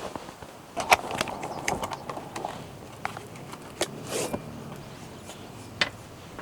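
Objects being handled: a series of sharp clicks and knocks, the loudest about a second in, with some rustling between them.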